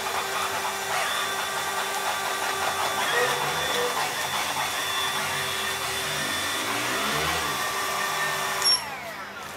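Robot vacuum cleaner running with a steady motor whine. Near the end there is a brief high-pitched blip, then the motor winds down with a falling whine as it shuts off.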